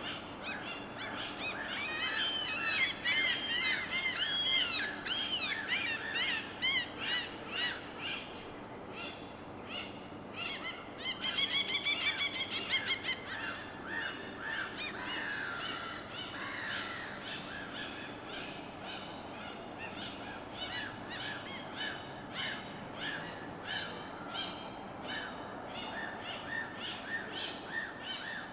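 Several birds calling over a steady wash of noise: a run of quick rising-and-falling chirps in the first few seconds, a fast trill about eleven seconds in, and short notes repeating steadily the rest of the time.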